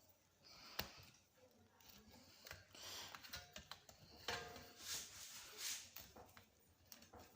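Faint scattered clicks, taps and light scraping of small metal parts: screws and metal washers being handled while a barber chair's headrest is refitted.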